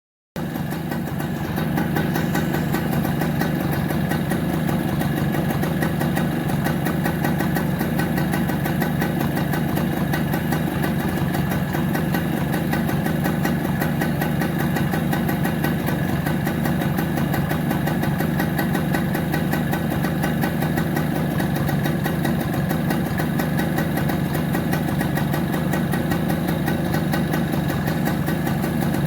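TVS XL Heavy Duty moped's small single-cylinder engine running steadily at idle with a fast, even beat, freshly fitted and test-run.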